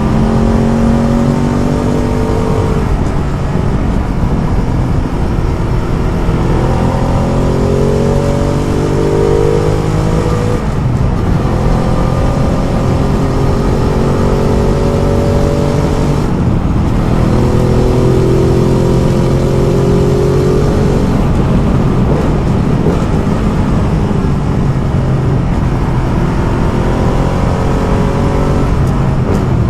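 Ducati Multistrada motorcycle engine under way, accelerating up through the gears: its pitch climbs and then drops back about every five seconds, over steady wind noise.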